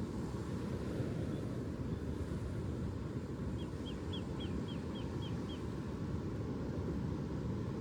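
Steady low outdoor rumble with a bird giving a quick series of about eight short, high chirps, about four a second, near the middle.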